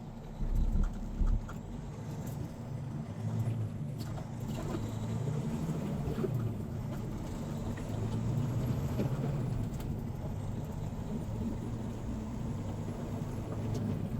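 Semi-truck's diesel engine running steadily while driving, heard from inside the cab, with two short low thumps in the first second and a half.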